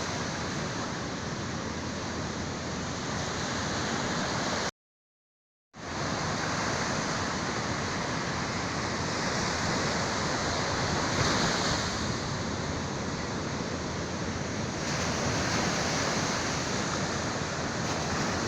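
Sea waves breaking and washing on the shore: a steady rushing surf. The sound drops out to complete silence for about a second around five seconds in, then resumes.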